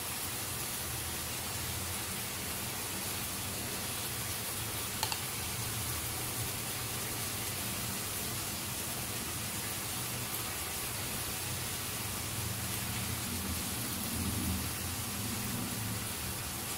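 Steady sizzle of hot oil in a frying pan as spoonfuls of egg batter fry into small omelettes, with a faint click about five seconds in.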